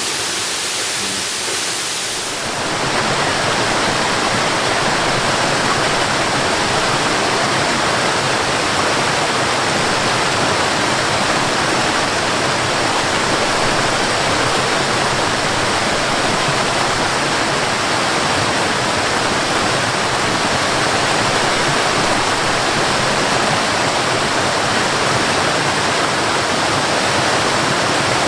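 Waterfall: a steady rush of falling water. About two seconds in it becomes louder and fuller.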